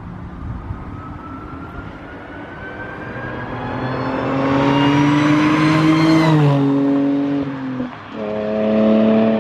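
2015 Audi B8.5 S4's supercharged 3.0-litre V6 with a rear muffler delete, accelerating: the revs climb steadily for about six seconds, then drop suddenly at an upshift. Near the end the sound dips briefly, then the engine pulls on at a steady pitch.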